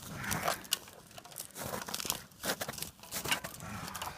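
Irregular crinkling and crunching, the noise of something stiff being handled at close range.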